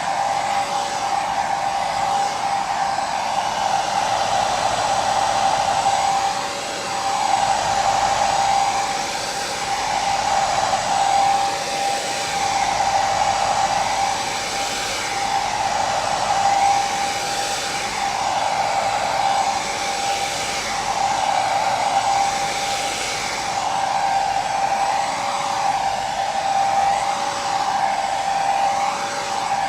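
Hair dryer running continuously: a steady motor whine held on one pitch over a loud airflow hiss that slowly swells and wavers.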